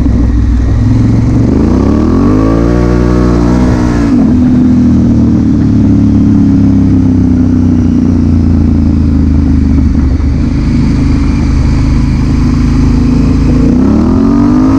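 Honda Africa Twin CRF1000L's parallel-twin engine under way: it revs up over about two seconds and drops sharply in pitch, then holds a steady speed before revving up again near the end.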